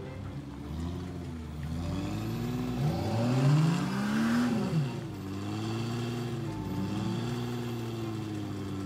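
Engines of off-road Jeeps revving up and down as they climb a muddy trail. One long rev rises and falls about three to five seconds in.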